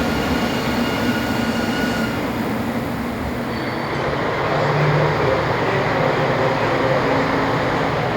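A train running on the rails with a steady rumble. Faint high ringing tones sound in the first two seconds.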